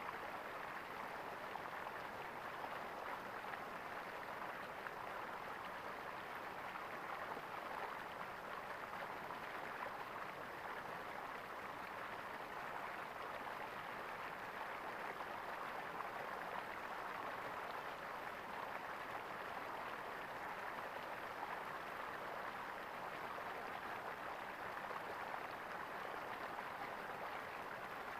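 Flowing water gurgling steadily, like a small stream over stones.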